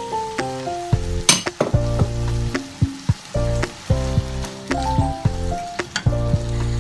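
Beef and vegetables sizzling in a nonstick wok as they are stir-fried with a silicone spatula, with sharp clicks of the spatula, the strongest about a second in. Background music with a bass line plays over it.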